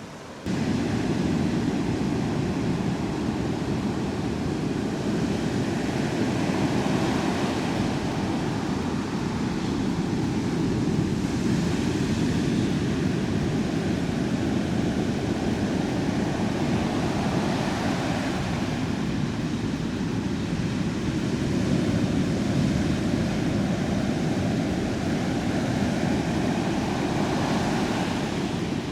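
Ocean surf breaking and washing ashore, with waves swelling every few seconds, over a steady rumble of wind on the microphone.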